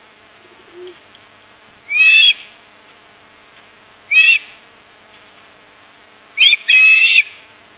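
A bird giving four short, harsh calls, about two seconds apart, the last two running together, over a steady background buzz.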